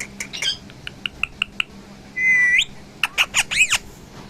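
Pet parrot calling: a quick string of short chirps, then a held whistle that rises sharply at its end, then a fast run of squawks that each rise and fall.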